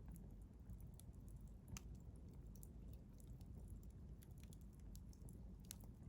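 Wood campfire crackling faintly: scattered small sharp pops and snaps over a low steady hiss of burning, with one brighter pop a little under two seconds in.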